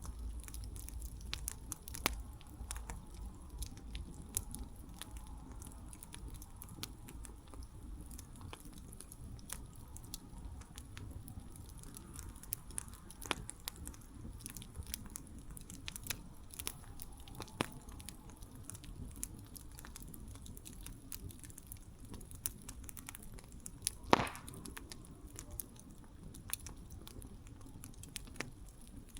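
Campfire crackling: burning wood giving irregular sharp pops and snaps over a low steady rumble of the flames, with one louder pop about 24 seconds in.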